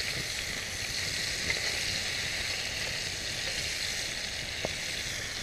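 Food sizzling steadily in a mess-kit frying pan over a wood campfire, with one light tap a little before the end.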